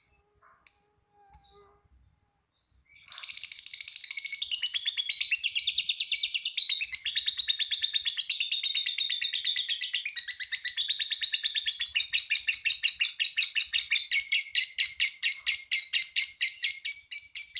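Lovebird's long, rapid chattering song (the 'ngekek'), a dense run of very fast high chirps. A few short separate chirps come first, then after a brief pause the continuous chatter starts about three seconds in and carries on.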